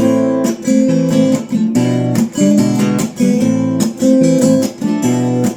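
Acoustic guitar strumming chords in a steady rhythm, starting abruptly: the instrumental introduction to a song.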